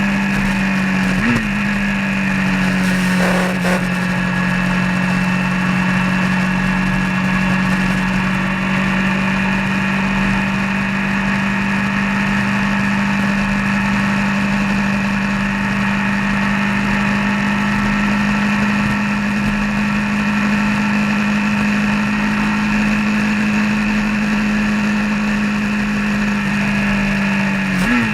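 A vehicle's engine running steadily at cruising speed on the road, holding an even pitch, with a brief drop and return in engine pitch about a second in and again at the end.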